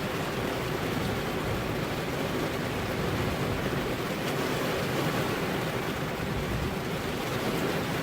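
Steady rainfall, a dense even hiss with no break or change.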